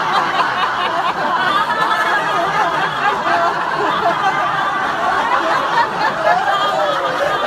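A crowd of people laughing and babbling nonsense syllables all at once, as a group laughter yoga exercise in Gibberish.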